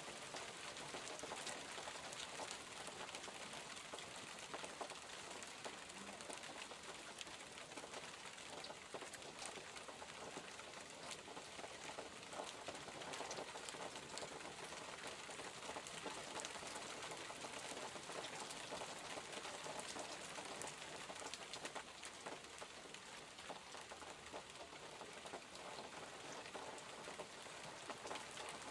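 Steady rain falling: an even hiss with many small, scattered drop taps.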